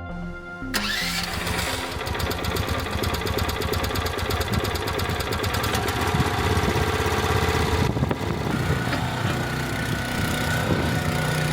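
Small engine of a Jansen MB 360 mini crawler excavator running loudly with a fast steady chatter. It comes in suddenly under a second in, and its note shifts about eight seconds in.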